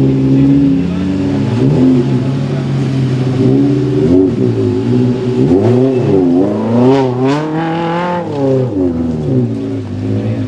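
Off-road 4x4 prototype's engine revving under load as it climbs a steep dirt bank: the revs hold at first, then rise and fall repeatedly with quick throttle blips in the middle, easing off near the end.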